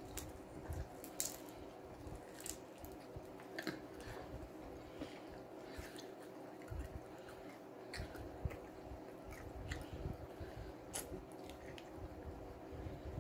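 Close-up chewing and mouth sounds of a person eating a shrimp egg roll, with short wet clicks and smacks scattered throughout. A faint steady hum runs underneath.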